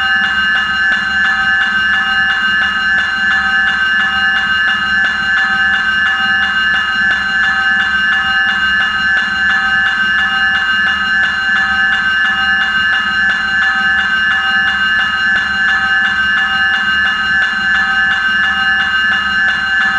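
Fire apparatus air horn held in one long, loud, steady multi-note blast that never changes pitch, with a fainter tone underneath pulsing on and off.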